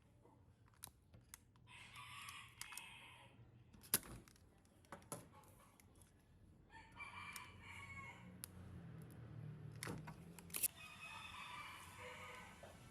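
A rooster crowing three times, each crow about a second and a half long, with a few sharp clicks or knocks in between.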